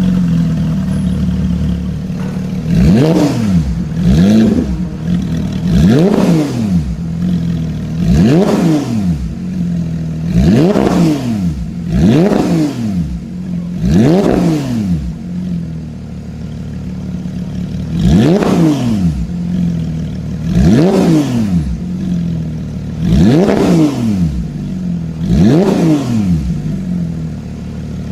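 Supercar engine idling just after starting, repeatedly blipped through about eleven sharp throttle revs, each rising and falling in pitch, with a longer pause near the middle.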